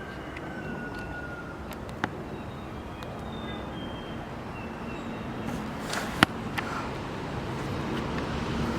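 Outdoor ambience with faint, short whistled bird calls scattered throughout over a steady background hiss, and two sharp clicks, the louder one about six seconds in.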